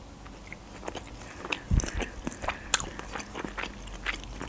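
A person chewing a bite of khinkali (Georgian meat dumpling) with the mouth closed: many small smacking clicks of the mouth, with one low thump a little under two seconds in.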